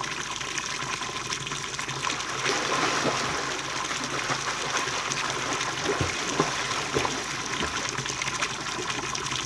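Running water flowing and splashing steadily, with a few short splashes or knocks about six to seven seconds in.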